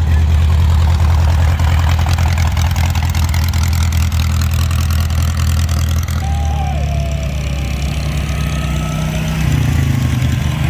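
Sand rail's engine idling with a steady low note. The engine note shifts about six seconds in and again near the end.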